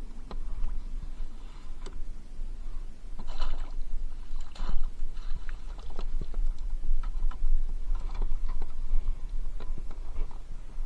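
Irregular knocks, clicks and rustling of gear being handled aboard a fishing kayak, with a couple of louder noisy bursts, over a steady low rumble.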